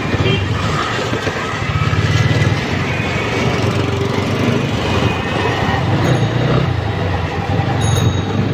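Motorcycle engine running on the move, its note swelling and easing a few times, over steady road and wind noise.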